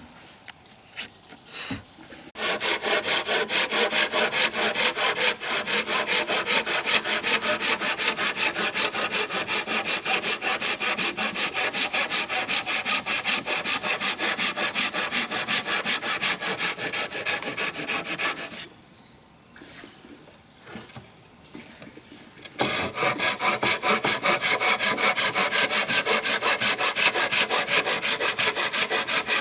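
Wood being sawn by hand with fast, even back-and-forth strokes. The sawing stops for about four seconds past the middle, then starts again.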